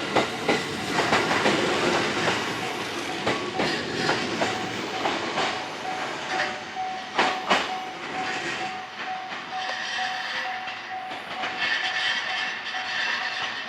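JR East E131-500 series electric train pulling away, its wheels clacking over rail joints, with a steady high whine running alongside.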